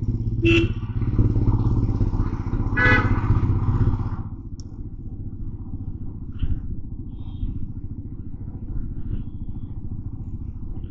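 Motorcycle engine running under the rider while riding in traffic, a steady low rumble that is louder for the first four seconds, then eases. A short pitched sound with many overtones cuts in about three seconds in.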